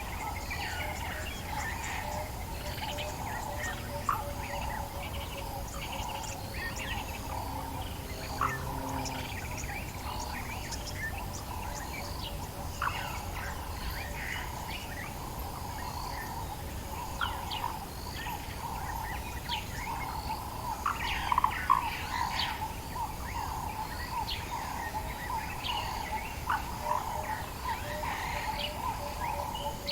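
Dawn chorus in the African bush: many birds calling with short chirps and whistles, busiest about two-thirds of the way through, over a steady trilling chorus underneath.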